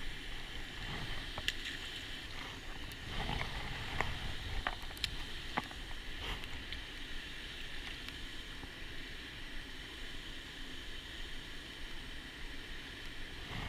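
Steady outdoor background noise of water and wind, with several sharp clicks and knocks between about one and six seconds in.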